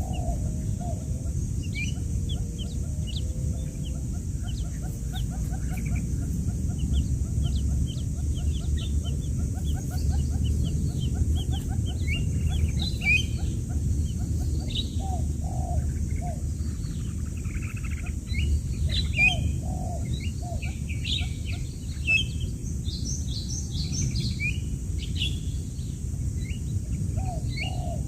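Newly hatched quail chicks peeping: many short, high chirps, growing busier about halfway through, over a steady low rumble.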